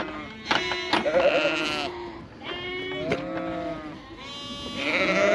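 A flock of ewes and lambs bleating, many overlapping calls one after another, typical of sheep calling for each other when lambs are weaned off their mothers.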